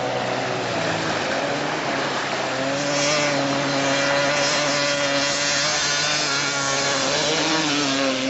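Dirt bike engine held at high, steady revs while the bike skims across a river; the pitch shifts about a second in and drops as the throttle closes near the end.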